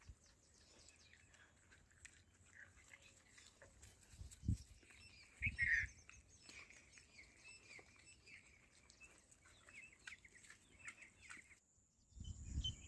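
Faint bird chirping and calling, many short chirps, with two brief low thumps in the middle.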